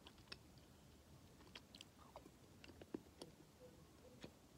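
Faint mouth sounds of a person chewing a very chewy caramel-peppermint candy: irregular soft clicks and smacks.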